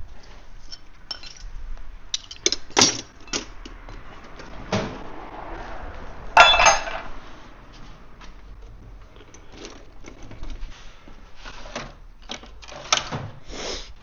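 Metal tools and small parts clinking and clattering on a workbench: scattered knocks and clinks, the loudest a sharp metallic clank with a short ring about six and a half seconds in.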